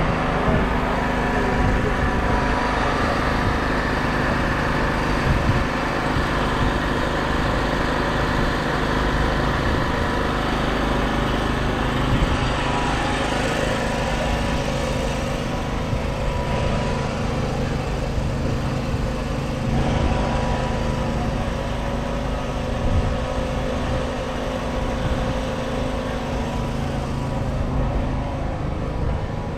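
Kubota M5-112 tractor's 3.8-litre four-cylinder diesel engine running at a steady speed.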